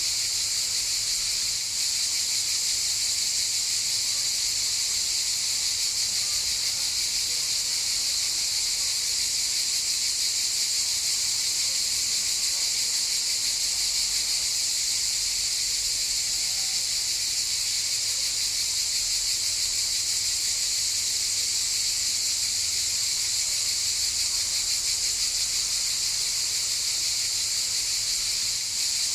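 Cicadas in chorus: a steady, unbroken high buzz.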